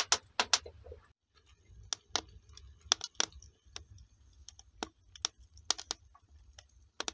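Irregular sharp clicks and crackles, a few each second, over a faint low hum.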